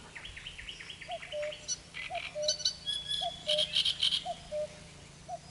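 Outdoor birdsong: high chirps and quick runs of notes, strongest in the middle, with a short, soft low note repeated about once a second.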